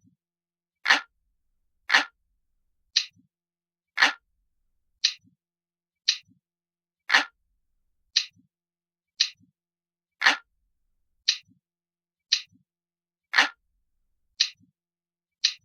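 Analog clock ticking steadily, about one tick a second, with roughly every third tick sounding fuller and lower than the others.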